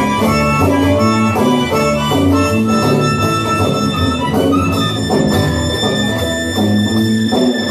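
Band playing an instrumental passage of a blues-rock tune, bass notes moving in a steady rhythm under sustained lead lines, with no singing.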